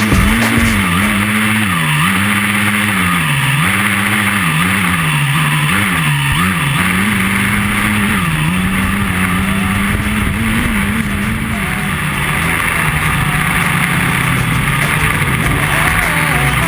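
A motor or engine running, its pitch rising and falling over and over as it speeds up and slows down, then holding steadier for the second half.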